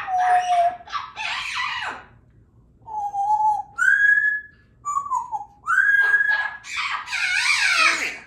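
Congo African grey parrot whistling a string of clear single notes, mostly steady in pitch with one sliding down, broken by rough raspy squawks about a second in and a longer one near the end.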